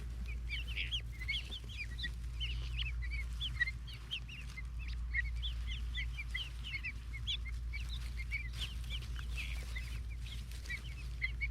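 A flock of young guinea fowl keets peeping continuously, many short high chirps overlapping several times a second.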